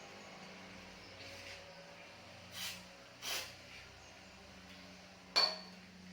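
Workshop handling noises while working on a motorcycle's rear wheel: two short scraping swishes, then a single sharp metallic clink that rings briefly near the end, over a steady low hum.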